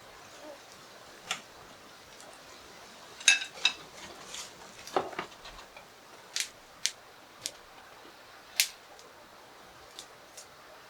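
A series of sharp clicks and light knocks of utensils and tableware being handled, with a quick cluster about three seconds in and single clicks every half second or so after it.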